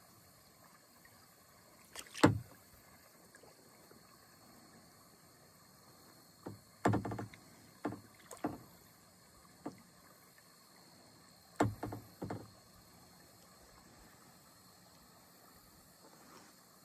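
Kayak paddle strokes: irregular groups of short splashes and knocks against the boat, the loudest about two seconds in, then clusters about seven and twelve seconds in.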